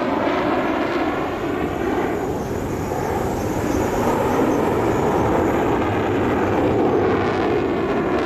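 Jet noise from a Mitsubishi F-2 fighter's single F110 turbofan as it flies past in a display. It is a loud, continuous rush whose tone sweeps down and then back up as it passes, growing a little louder in the second half.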